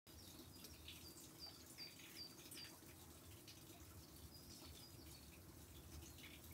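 Faint bird calls: a run of short, high repeated notes, then a few more about four seconds in, over a low steady background hum.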